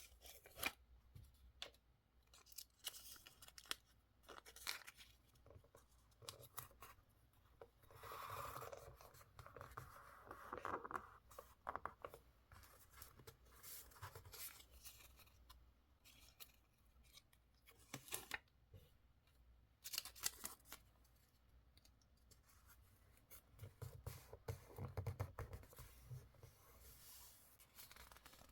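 Quiet close-up paper-craft sounds: scissors snipping paper in a run of short sharp snips and clicks, with paper being handled and rustled for a longer stretch about eight to eleven seconds in.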